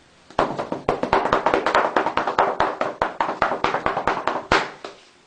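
A hand tapping quickly and evenly, a fast run of sharp pats lasting about four seconds before stopping near the end.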